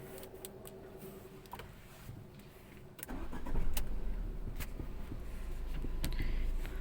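Tata Zest petrol engine starting about three seconds in and settling into a steady idle, after a few faint clicks. Its cylinder-1 injector wire, broken and leaking current and causing a misfire that stalled the engine, has just been replaced.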